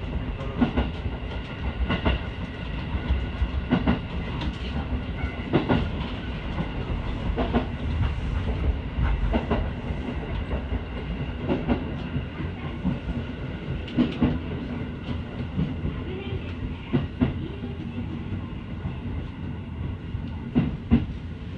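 Local train running along the track, heard from inside the carriage: a steady rumble and hum, with the clickety-clack of the wheels over rail joints every second or two.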